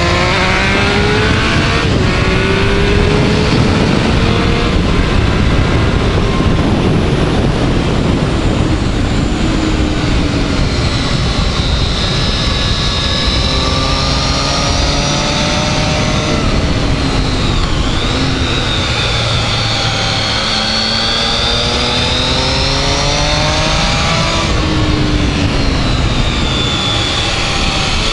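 Triumph Speed Triple's inline three-cylinder engine pulling hard through the gears, its pitch climbing in long sweeps, dropping back at each gear change and falling as the bike slows for corners. Heavy wind rush over the microphone runs underneath.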